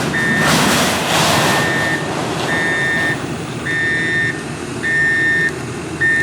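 Vehicle reversing alarm beeping steadily, one beep about every 1.2 seconds, over a running diesel engine. A loud hiss rises and dies away near the start.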